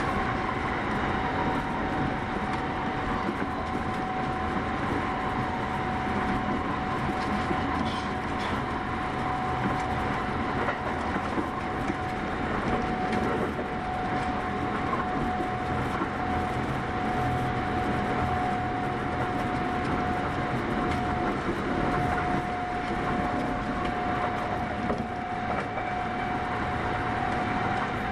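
Kintetsu 8810-series electric train running at steady speed, heard from inside the passenger car: an even rumble of wheels and track with a steady high hum held throughout.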